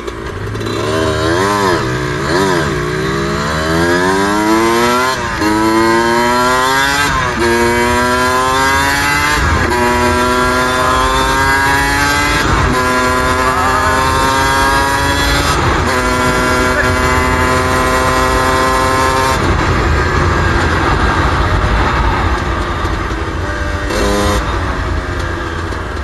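Suzuki RM125's two-stroke single-cylinder engine blipped twice, then pulling hard up through the gears: a run of rising pitches, each cut by a drop at a shift, about five shifts in all. Near the end the throttle closes and the engine winds down, with one short blip.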